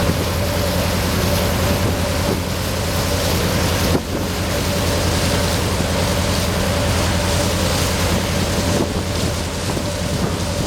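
Boat's diesel engine running steadily with a low, evenly pulsing drone, over rushing water and wind buffeting the microphone.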